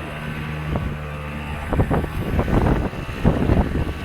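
The boat's engine hums steadily, labouring against a storm squall that it is not keeping up with. From about two seconds in, gusts of wind buffet the microphone in rough, irregular blasts that are louder than the engine.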